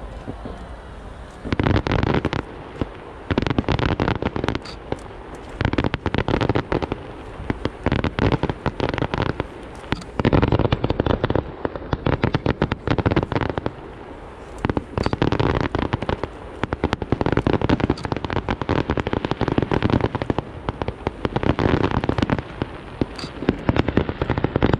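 Fireworks going off: dense, rapid bangs and crackles in runs of a few seconds each, with short lulls between them.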